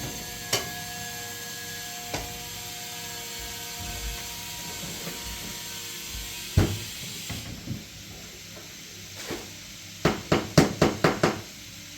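Scattered sharp knocks and clicks of hard objects, then a quick run of about seven knocks near the end.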